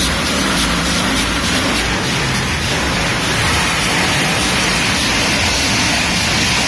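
Automatic tunnel car wash working over the car, heard from inside the cabin: a steady, loud rush of water spray with the wash brushes scrubbing the body and windows.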